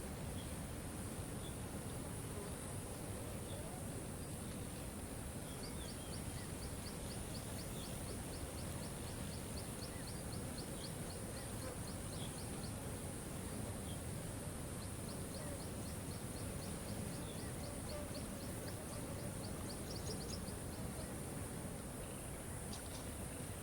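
Steady rush of a waterfall, with a constant high hiss above it. Twice, a rapid high trill of evenly spaced ticks, about five a second, runs for several seconds, and a few faint chirps come through.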